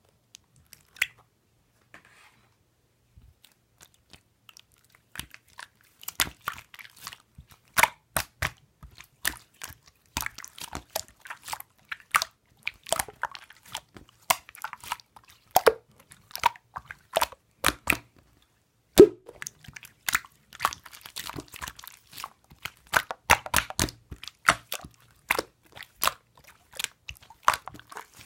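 Slime being squeezed, stretched and poked by hand, making irregular sharp crackling pops and clicks; sparse at first, then coming thick and fast from about six seconds in.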